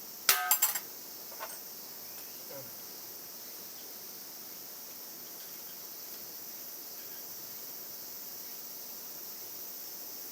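A quick cluster of sharp metallic clinks right near the start, then a steady high-pitched chorus of insects.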